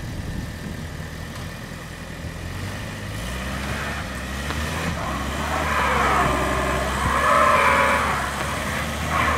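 Car engine running close by, a steady low drone that then revs up and down with a rising and falling whine in the second half.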